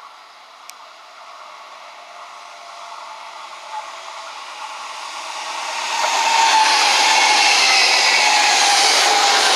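Eurostar Class 374 high-speed train approaching and passing at speed: a rushing wheel-and-air noise that swells steadily and turns loud about six seconds in, with a whine that falls in pitch as the train goes by.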